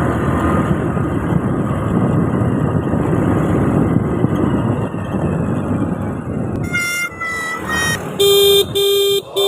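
Steady wind and road noise from a motorcycle ride. Near the end, a vehicle horn honks: a few short toots, then two louder, longer blasts.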